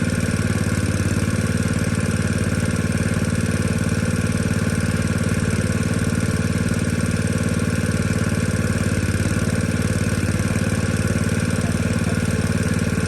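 An engine idling steadily, with an even, unchanging note.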